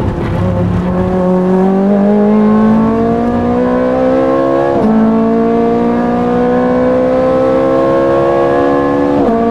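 Ferrari race car's engine heard from inside the cockpit, accelerating hard at full throttle with its pitch climbing steadily. It drops sharply on an upshift about five seconds in and again near the end, then climbs again after each shift.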